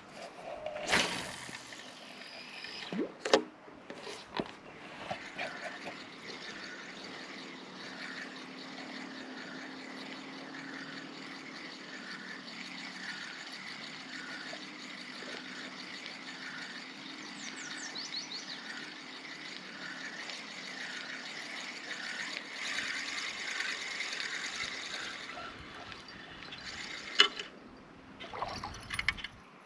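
A cast with a fishing rod, a whoosh and a couple of sharp knocks, then a spinning reel being cranked to retrieve a Daredevil spoon: a steady whirr that pulses about once a second with each turn of the handle, ending with a sharp knock near the end.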